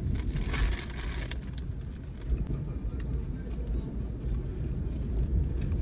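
Uneven low rumble with a short rustling hiss about half a second in.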